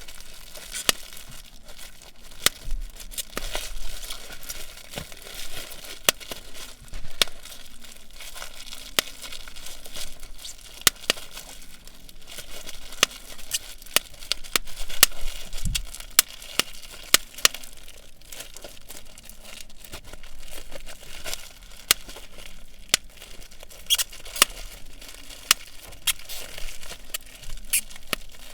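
Bubble wrap being squeezed and popped: irregular sharp pops, sometimes several in quick succession, over a steady crinkling of the plastic.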